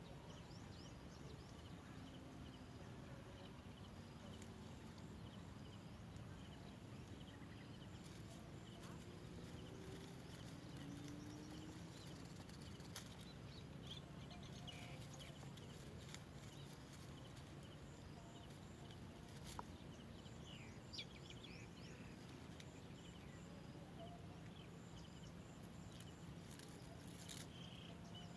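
Faint bird chirps, a few short quick downward-sliding series about halfway through and again near the end, over a low steady outdoor hum.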